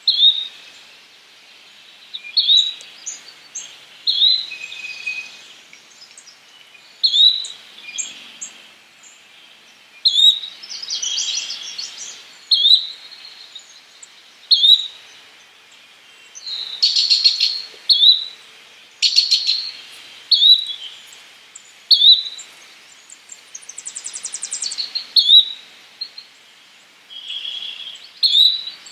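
Yellow-bellied flycatcher giving a short, sharp call over and over, about every one to two seconds. Other birds trill and chip between the calls.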